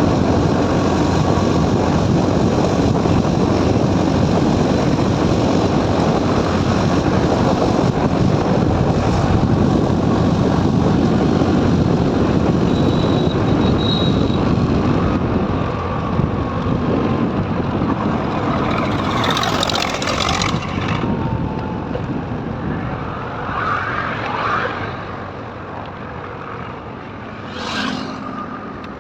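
Motorcycle riding noise at highway speed, a steady rush of wind, engine and road noise. It eases off in the last third as the bike slows, with a few brief sounds from passing traffic near the end.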